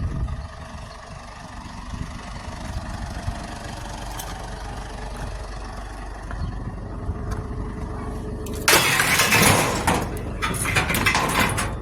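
Truck engine running steadily, with a sudden loud rush of noise about nine seconds in and more bursts of it near the end.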